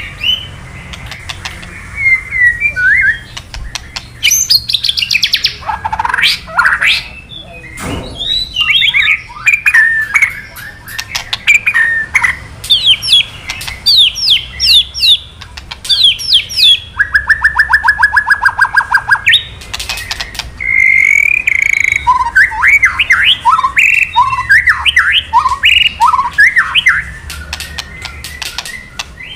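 White-rumped shama (murai batu) singing a fast, varied song of whistled notes, glides and sharp clicks. A little past the middle comes a rapid, even rattle, the 'kretekan' call, lasting a couple of seconds.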